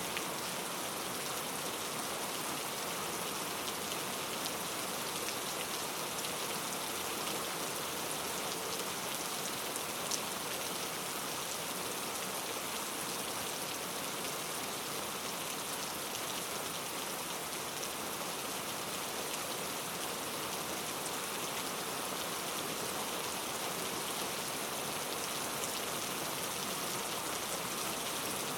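Steady rain falling on forest foliage, an even hiss with a few distinct drops ticking through it.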